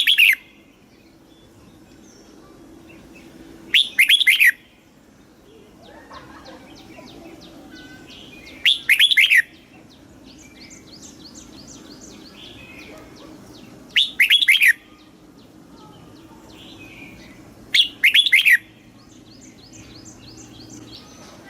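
Red-whiskered bulbul singing loud, short, fluty song phrases, one about every four to five seconds. Between the phrases there is fainter rapid chirping and a faint steady low hum.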